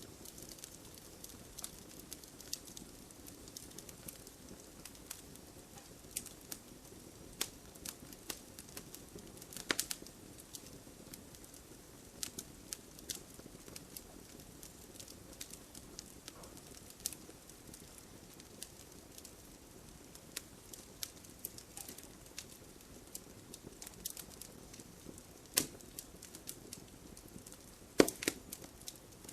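Wood fire burning in a fireplace: a low steady rush with irregular crackles and sharp pops, the loudest pops near 10 s, 26 s and 28 s.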